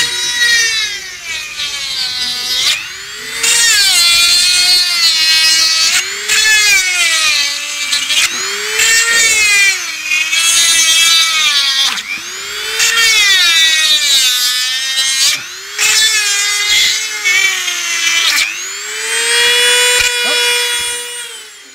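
Power drill boring pilot holes in a horse's hoof wall, its motor whine rising and falling in pitch over about seven short runs. The holes let the shoe nails go in easier, so the hoof does not crack so easily.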